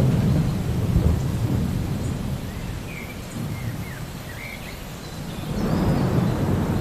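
Thunder rumbling over steady rain. The deep rumble is strongest at the start, dies down in the middle and swells again near the end.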